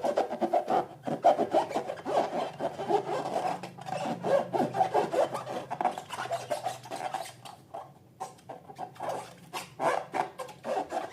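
Slime being worked by hand, a dense, irregular run of squishing crackles and clicks that thins out about eight seconds in, then picks up again.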